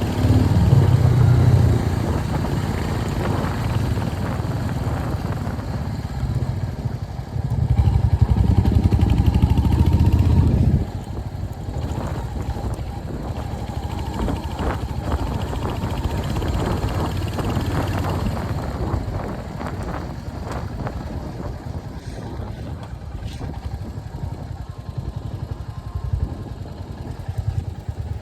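Royal Enfield Hunter 350's single-cylinder engine and exhaust while riding, louder under harder throttle for the first couple of seconds and again from about seven to eleven seconds in, then running lighter with scattered short clicks and rattles.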